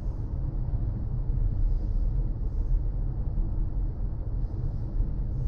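Car driving along at steady speed: a continuous low rumble of engine and road noise.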